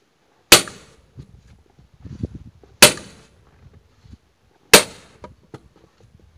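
An axe striking firewood three times, about two seconds apart. Each blow is a sharp crack with a short ring after it, and lighter knocks and clatter of wood come between the blows.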